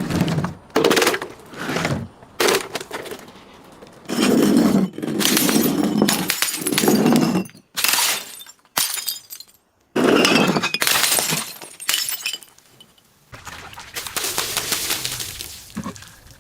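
Glass being crushed and shattering: a series of crunching, cracking bursts of breaking glass, some short and some lasting a few seconds, with brief pauses between them.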